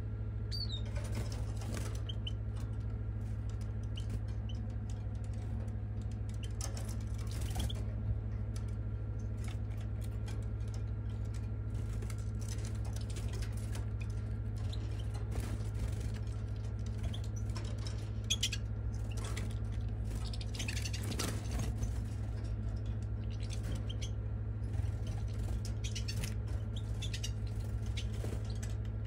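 A steady low hum with faint, scattered bird chirps and light clicks over it.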